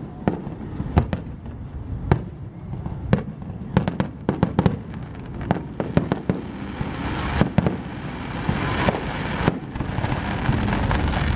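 Fireworks display: aerial shells bursting in quick, irregular succession, many sharp bangs and pops. A crackling hiss builds through the second half.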